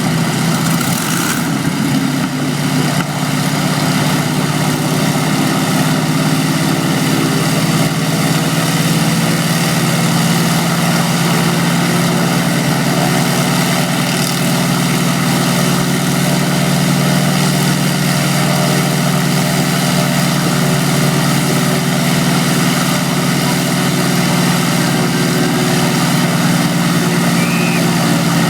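Vintage aircraft engine running steadily at a constant speed, a low, even drone.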